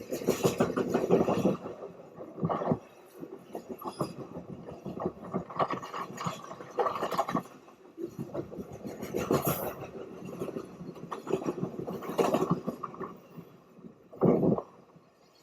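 BNSF freight train passing, its cars rattling and clattering over the rails in irregular bursts.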